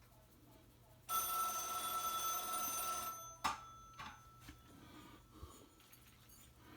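A telephone rings once for about two seconds, starting about a second in, followed by a few faint clicks and taps.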